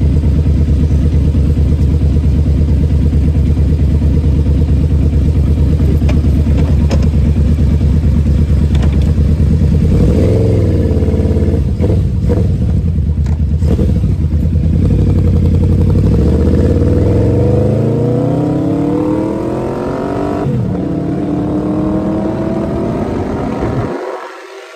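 Yamaha V-Max motorcycle's V4 engine running steadily at idle, blipped once about ten seconds in, then pulling away with its pitch climbing, dropping suddenly at an upshift about twenty seconds in and climbing again. The engine sound falls away just before the end.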